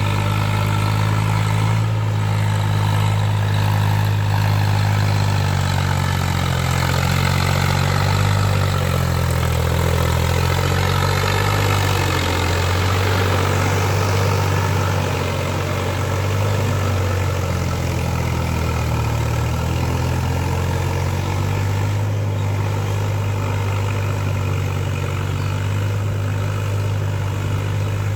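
Agri King AKT 54 tractor's Kirloskar diesel engine running steadily, its pitch wavering slightly now and then.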